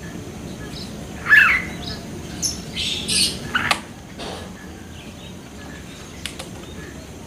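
Short bird calls: a loud call that bends in pitch about a second in, then several shorter, higher calls over the next two seconds, and two faint sharp clicks near the end.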